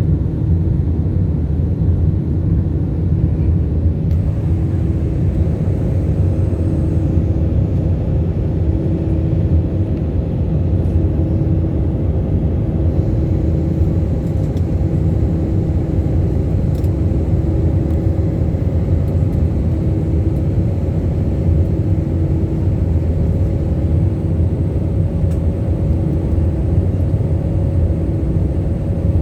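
Airliner cabin noise during the climb after takeoff: a steady, heavy low rumble of engines and airflow, with a faint hum that comes and goes.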